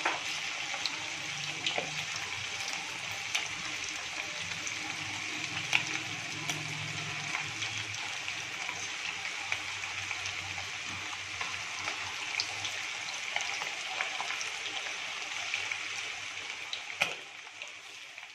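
Battered chicken strips (cornflour, flour and egg coating) frying in hot oil in a frying pan: a steady sizzle with scattered small pops and crackles. It fades near the end.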